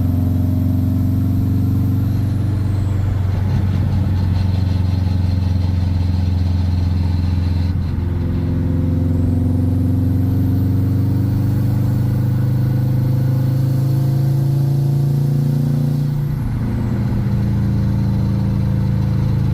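Subaru 2-litre WRX turbocharged flat-four engine pulling the car along on a drive, with a steady drone. The engine note dips and changes pitch briefly about 8 and 16 seconds in, as at gear changes, then picks up again.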